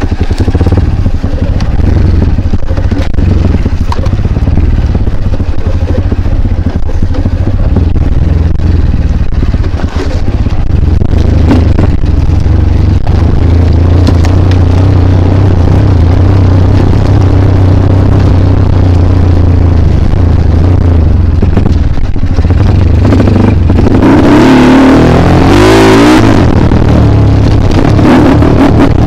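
Kawasaki KLX trail bike's single-cylinder four-stroke engine running at low, steady revs, then revving hard with rising and falling pitch about three-quarters of the way through.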